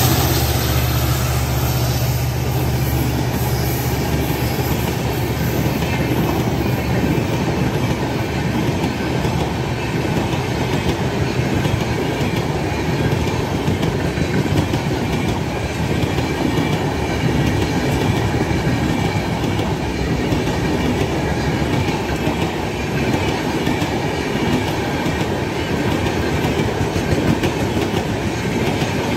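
Express train coaches rushing past at speed, their wheels rumbling and clattering steadily over the rail joints. Over the first few seconds the low drone of the WDG4 diesel locomotive hauling them fades away.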